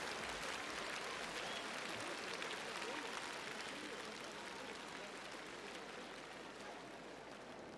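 Audience applause dying away into a low crowd murmur, fading steadily.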